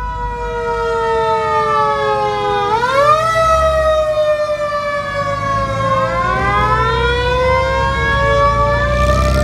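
Sirens wailing, two of them overlapping out of step, each climbing quickly in pitch and then falling slowly, over a low vehicle rumble.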